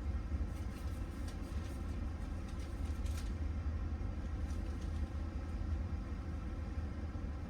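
Steady low rumble of a train, with a few faint clicks between about one and three seconds in.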